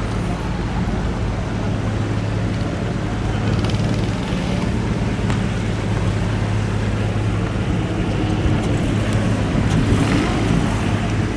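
An engine running steadily at idle: a low, even hum that does not change, over a haze of outdoor background noise.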